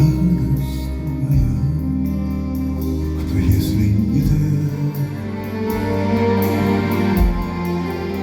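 Live band music at a concert: held bass notes under sustained chords that change every second or two.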